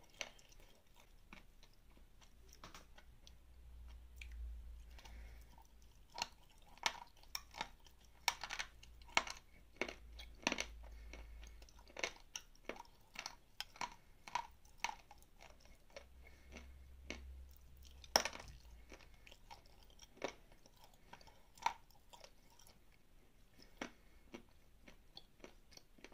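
Chewing and crunching a lump of edible clay: many irregular, sharp crunches and bites, the loudest about 18 seconds in.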